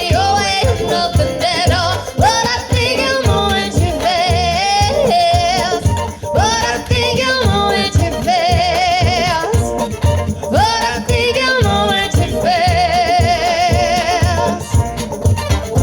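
Bluegrass band music: a lead melody of long, wavering held notes over a steady strummed-string rhythm.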